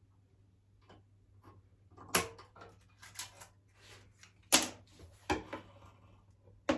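Handling noises while unpacking a heat press: a string of knocks and clatters, the loudest about halfway through, ending on a sharp click, over a steady low hum.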